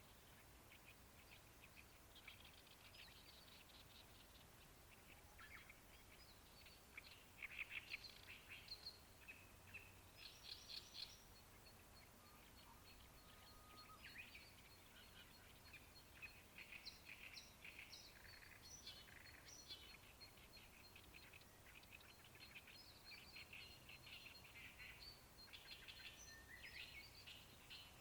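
Faint, wild songbirds singing by a river, with several overlapping scratchy, chattering phrases. From about a third of the way in, a steady run of high, evenly spaced ticks runs under them.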